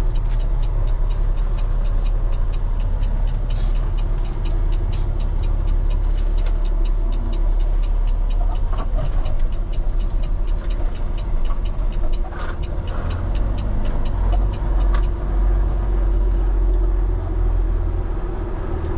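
Heavy diesel engine of a Peterbilt rotator wrecker truck running steadily while driving, a constant low rumble, with many light ticks over it.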